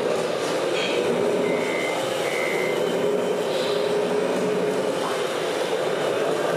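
Steady engine-like hum from scale RC trucks, with two short high beeps a little under a second apart, about one and a half seconds in, like a reversing warning.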